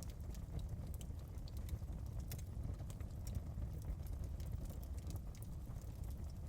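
Fireplace fire crackling, with many quick irregular pops over a steady low rumble of the flames.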